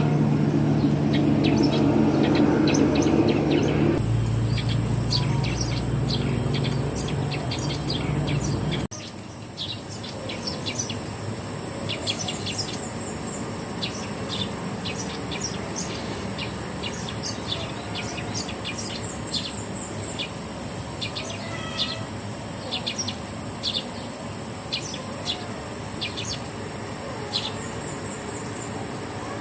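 A small bird giving many short, high chirps in quick runs over a steady high-pitched insect trill, calling for a mate. A low hum underlies the first nine seconds and cuts off suddenly.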